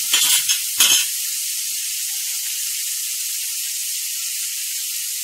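Chopped onion, tomato, green chilli and garlic sizzling in oil in a kadai, a steady high hiss, with a few clicks of stirring in the first second.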